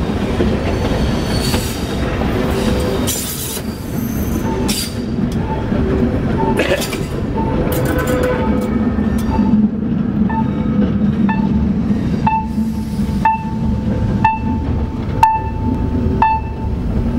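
Metre-gauge train running with a steady rumble and brief wheel squeals and clicks. About halfway through, a level-crossing warning bell grows loud, dinging evenly about once every 0.7 seconds.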